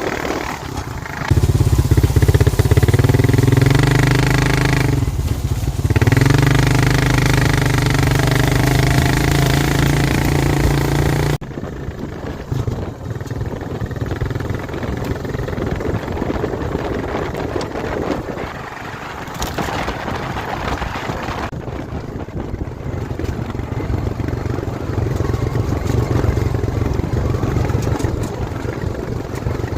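ATV engine running hard from about a second in, with a short dip in pitch and level about five seconds in. About eleven seconds in it drops suddenly to a quieter, steadier engine sound.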